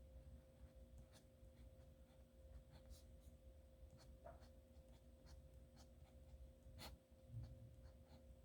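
Nib pen scratching faintly on paper in short, irregular strokes, over a steady low hum.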